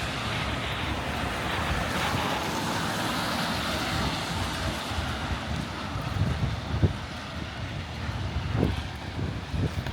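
Traffic on a rain-wet street: a hiss of tyres on wet asphalt swells and then fades after about five seconds. Low buffeting of wind on the microphone runs underneath.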